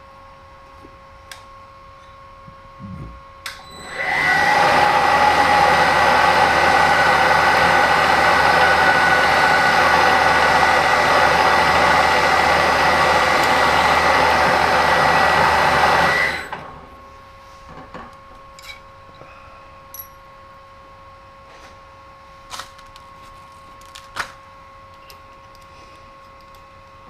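A power tool's motor starts about four seconds in and runs loud and steady with a high whine for about twelve seconds, then stops. A faint steady machine hum sits underneath throughout, and small clicks and knocks follow the stop.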